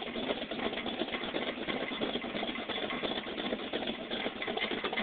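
Car engine idling steadily through headers and a true dual exhaust with 36-inch glasspack mufflers.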